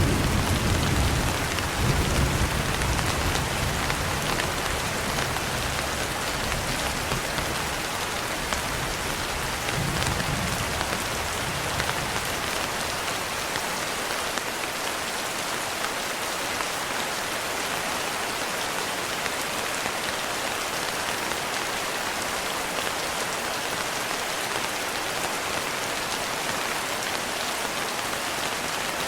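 Steady rain falling, with a low rumble of thunder that rolls on through the first dozen seconds, swells once more about ten seconds in, then dies away, leaving only the rain.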